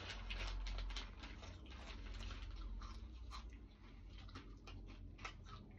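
Crisps being chewed: a quick, irregular run of small crunches and crackles.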